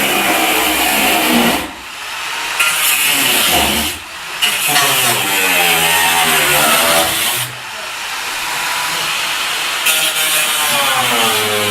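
GAZelle van engine revving: its pitch climbs and then falls off three or four times, with a short drop in level between each rise.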